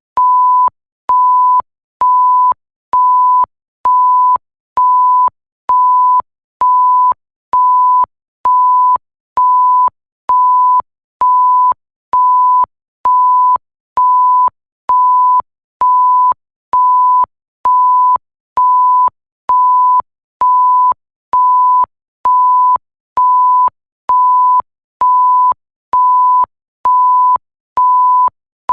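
Repeated 1 kHz sine-tone bleeps, the standard censor bleep, one beep about every second, each lasting a little over half a second, with a faint click as each starts and stops.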